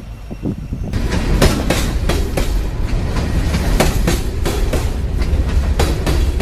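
Older Lionel O-scale toy locomotives running on track. A steady motor rumble picks up about a second in, with frequent irregular clicks as the wheels pass over the rail joints.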